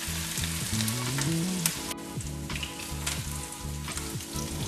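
Food frying in hot vegetable oil in a pan: a steady crackling sizzle, over a steady low droning tone.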